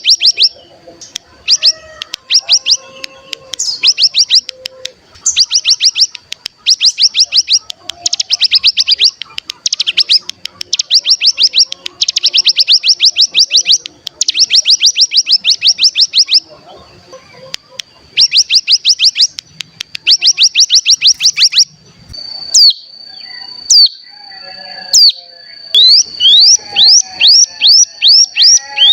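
Ciblek gunung (cigun) song: rapid high trills, the 'bren', in bursts of about a second each with short gaps, over a steady high whistle. Near the end the trills give way to a held whistle cut by a few sharp upswept notes, then a slower string of rising chirps, about two a second.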